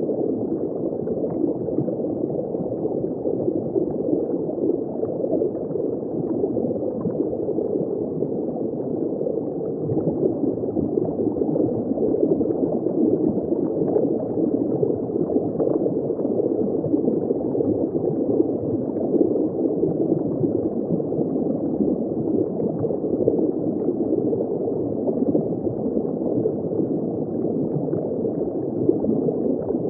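Underwater ambience recorded just below the surface: a steady, muffled, dense bubbling and gurgling of water, with little high end.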